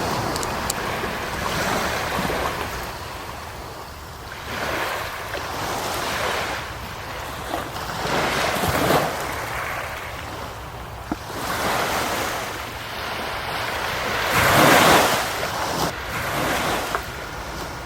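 Sea waves washing in on the shore, swelling and breaking in surges every two to three seconds, the biggest wave about three-quarters of the way through.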